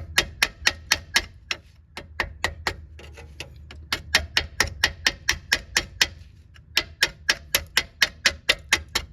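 Rapid light strikes of a tool's head on a rusted metal wheel-hub surface, knocking off thick rust scale. The taps come about four a second, in runs broken by short pauses.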